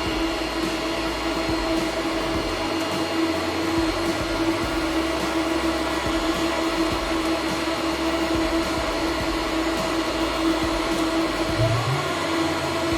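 Home-built waste oil burner running steadily: a constant machine hum over a rush of air and flame noise, unchanging throughout.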